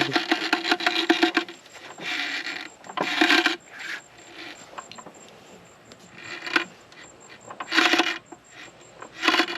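Intermittent metallic clinking and rattling, a dense run of rapid clicks in the first second and a half, then a handful of short separate bursts.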